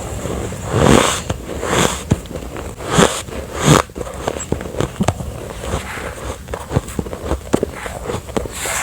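Close-miked biting and chewing of refrozen ice with a sandy crunch. Four loud crunching bites fall in the first four seconds, followed by a steady run of smaller crackling crunches as it is chewed.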